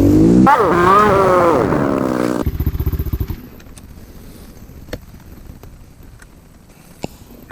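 A dual-sport motorcycle's engine runs with its revs rising and falling, then drops to a low, uneven chugging idle. About three seconds in the engine sound stops, leaving only a few faint clicks.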